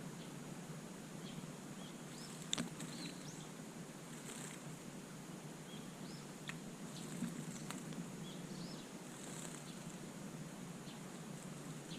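Small garden birds chirping in short, scattered high calls over steady outdoor hiss, with a few sharp clicks, the loudest about two and a half seconds in.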